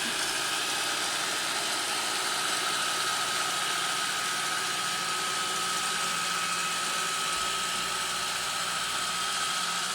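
iRobot Roomba 530 running, its vacuum fan and brush motors giving a steady whirring hiss with a constant high whine.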